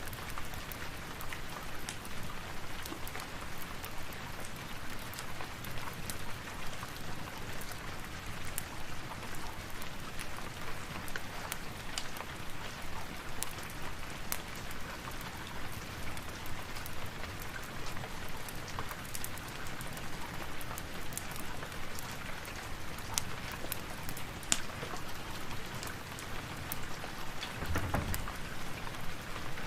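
Steady rain, with scattered sharp clicks and crackles over it and a brief low rumble near the end.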